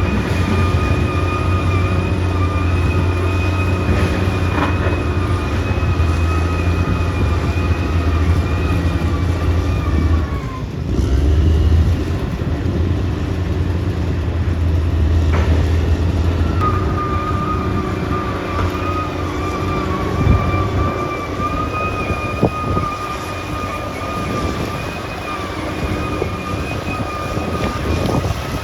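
Caterpillar D6R XL bulldozer's diesel engine running under load with a steady high whine over the low drone. The whine drops out for several seconds in the middle and then returns. There are a few sharp metallic knocks along the way.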